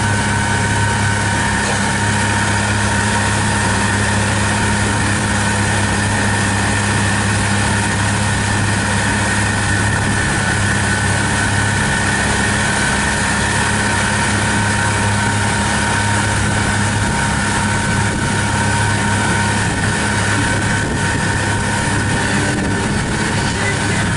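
Pontoon boat's outboard motor running at a steady, unchanging speed while the boat cruises, with a steady hiss beneath it.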